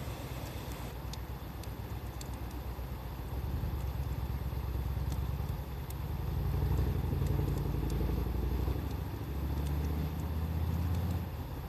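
Low engine rumble of a motor vehicle running close by, steady with evenly spaced low tones and getting louder through the middle, over scattered small crackles of a wood fire.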